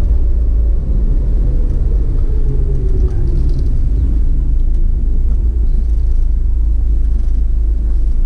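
Waterfall heard up close: a loud, steady, deep rumble of falling water.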